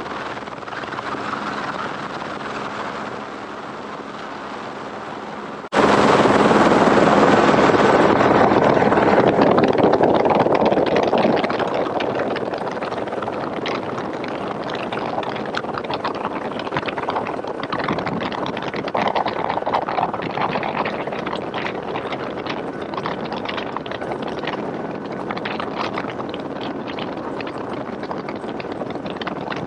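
Helicopter running steadily for the first few seconds. About six seconds in, a sudden, much louder rush of noise cuts in, then eases into a steady hiss with crackles.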